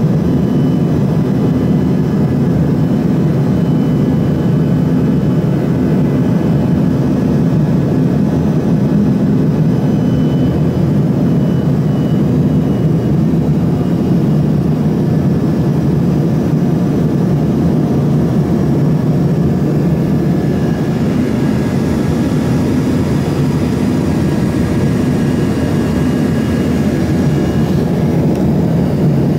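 Steady, loud cabin noise of an Embraer ERJ-145 regional jet in flight. Its rear-mounted Rolls-Royce AE 3007 turbofans and the airflow make an even low rush, with faint steady whine tones above it.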